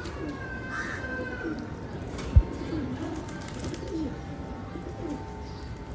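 Domestic pigeons cooing, a run of low, repeated coos, with one sharp thump about two and a half seconds in.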